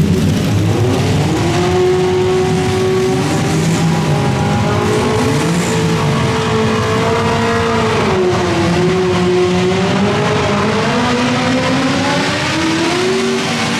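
Modified garden pulling tractor's engine running at high revs through a pull, its pitch wavering and dipping about eight seconds in before climbing again.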